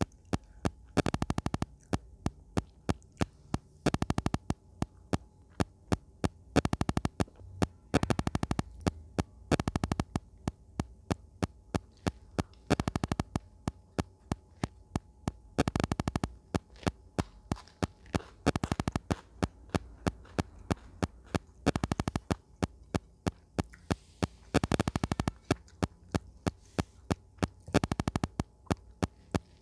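Close-up eating sounds: sharp mouth clicks and crunches from chewing, a few a second, with denser bursts every few seconds, over a faint steady hum.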